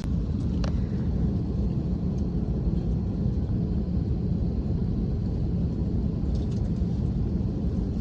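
Steady low rumble of cabin noise inside an Airbus A321 airliner, with a couple of faint clicks.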